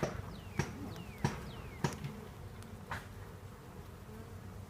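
Honeybees buzzing as a steady low hum around an open hive during a frame inspection, with several sharp clicks in the first three seconds and a few short falling whistles in the first two.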